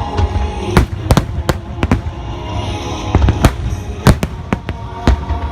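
Fireworks shells bursting in quick, irregular succession, about a dozen sharp bangs over a low rumble, with music playing underneath.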